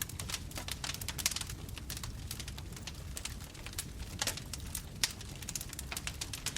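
Bonfire crackling: many irregular sharp snaps and pops from burning wood over a low, steady rumble of the flames.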